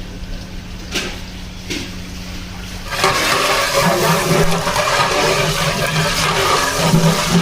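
Water running and splashing loudly, starting suddenly about three seconds in, over a steady low hum.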